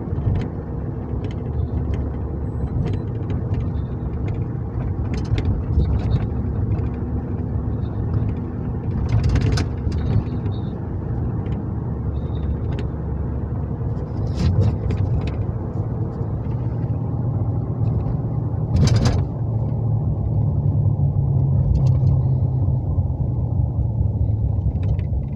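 Police car driving, heard from inside the cabin: steady engine and road rumble, with scattered small clicks and one sharper knock about 19 seconds in.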